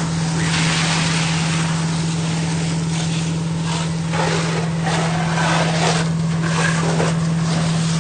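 Fire engine running with a steady low hum from its engine and pump while a water stream rushes and hisses as it extinguishes a fire.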